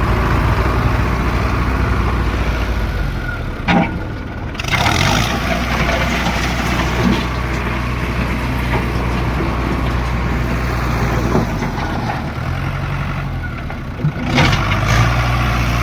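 Heavy diesel machine engine running steadily close by, with sharp knocks about four seconds in and again near the end.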